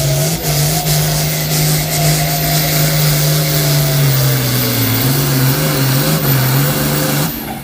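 Tractor engine running at a steady speed, its pitch dipping slightly a few times in the second half. The sound drops off abruptly near the end.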